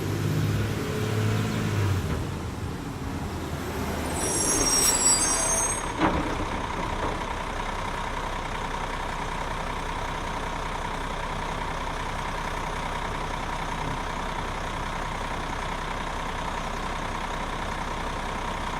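Truck engine idling steadily, a constant hum, after a brief high squeal and a sharp click about six seconds in. The last of some music fades out in the first two seconds.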